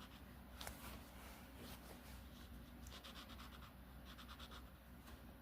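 Faint scratching of a marker tip colouring on paper, in runs of quick back-and-forth strokes with short pauses between them.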